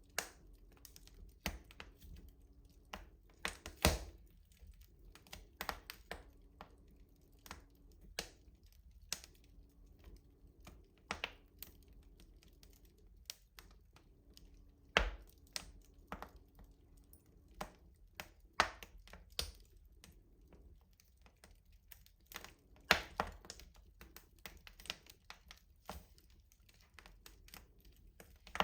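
Wood fire crackling in a rustic stove: irregular sharp pops and snaps over a low background, a few louder cracks about 4, 15 and 23 seconds in.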